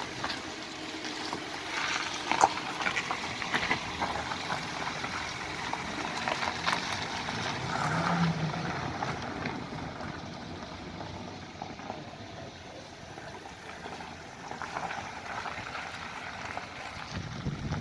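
Toyota Prius driving on a road test: a steady hiss of tyre and road noise, with scattered light clicks and knocks.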